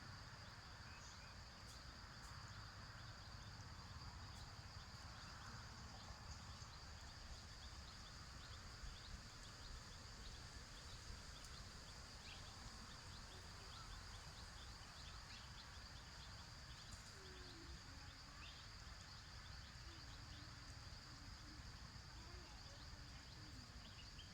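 Faint rural outdoor ambience: a steady, high-pitched insect drone over a low rumble, with a few faint ticks.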